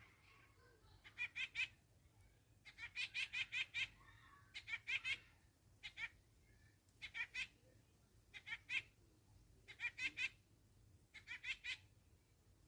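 A bird calling in about eight short, laugh-like bursts of fast repeated notes, a few to several notes per burst.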